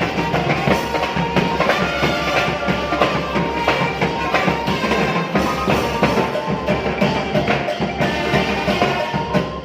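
Thai brass band (trae wong) playing a tune, with sustained horn notes over steady drumming.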